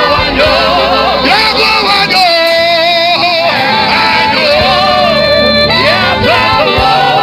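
Live gospel worship music: a lead singer's voice slides and wavers through long ornamented runs over a steady band accompaniment with bass.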